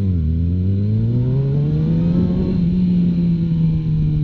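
Motorcycle engine under way. Its pitch dips at the start, then climbs steadily for about two and a half seconds as it accelerates, and holds roughly level after that.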